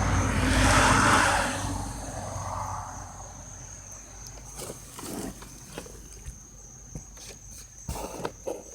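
Loud rush of air, likely the cab's heater blower, fading over the first two seconds. Then scattered sharp clicks about five seconds in and a quicker cluster near the end. The clicks come from the 2005 Dodge Dakota's heater air door actuator behind the glove box, which the owner takes to be failing.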